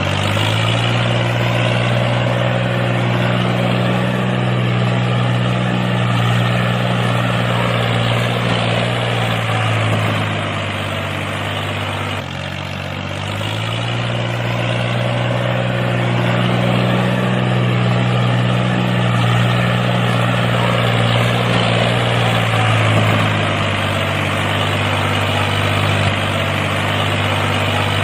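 Small motor running steadily with a low hum. Its speed sags twice, about ten seconds in and again near the end, then picks back up.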